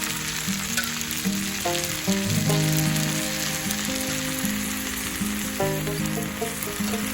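Food sizzling as it fries in a pan, with a steady hiss, and instrumental background music with a plain melody playing over it.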